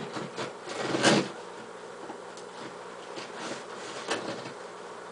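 Cardboard box and packaging being handled, with irregular rustling and scraping strokes, the loudest about a second in, over a faint steady hum.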